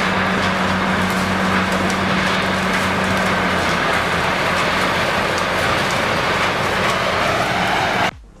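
Loud, steady machine noise with a constant low hum, cut off abruptly near the end.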